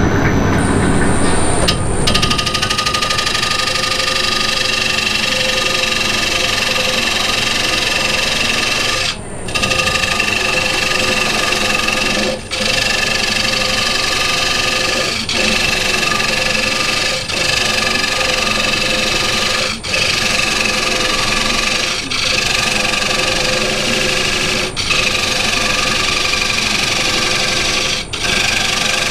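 Wood lathe running while a wood-and-resin workpiece is worked on it: a steady machine whine with scraping noise, briefly dipping every two to three seconds.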